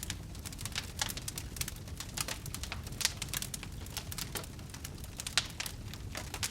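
Campfire crackling: irregular sharp pops and snaps of burning wood, a few louder than the rest, over a low steady rumble.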